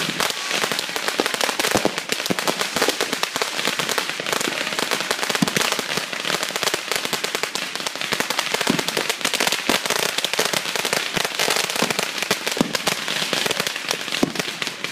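Firecrackers going off in a long, dense string of rapid bangs that blur into continuous crackling.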